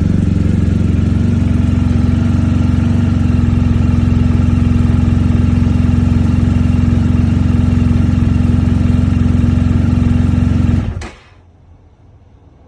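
BMW R1250GS Adventure's 1254 cc boxer twin idling steadily on a cold engine, then shut off about eleven seconds in.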